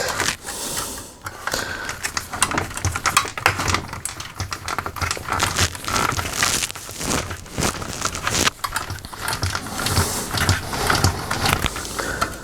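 Irregular clicks, taps and scrapes of a screwdriver driving a screw into the laminator's plastic frame, with parts knocking as they are handled.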